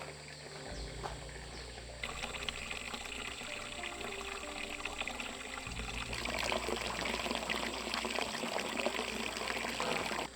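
Running water trickling and splashing. It starts about two seconds in, grows louder after about six seconds, and cuts off suddenly at the end.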